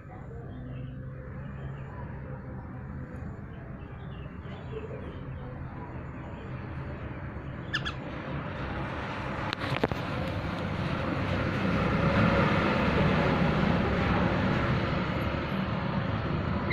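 A bird calling in short faint notes over a steady hum and background noise. The noise grows louder through the second half, and two sharp clicks come near the middle.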